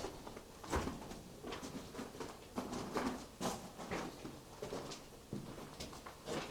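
Irregular footsteps crunching and scuffing on a loose, rubble-strewn mine floor, with short knocks every half second or so.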